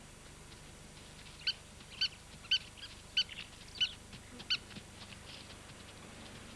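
Spur-winged plover giving a string of short, sharp alarm calls, about six loud notes starting a second and a half in: the bird is scolding large animals that come near it.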